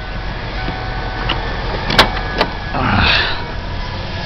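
1993 Ford Thunderbird's engine idling smoothly just after starting. Two sharp clicks come about two seconds in, and a short rushing noise about three seconds in.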